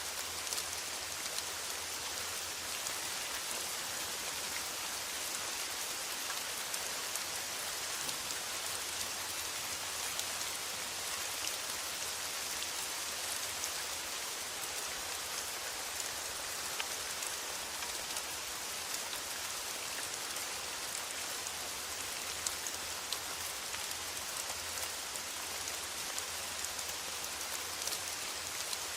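Steady rain drumming on a metal roof: a constant hiss dotted with the ticks of single drops hitting the sheet metal.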